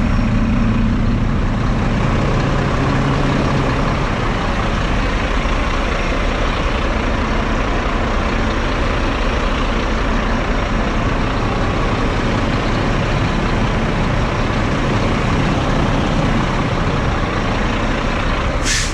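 Semi-truck diesel engine idling steadily, with a short high hiss near the end.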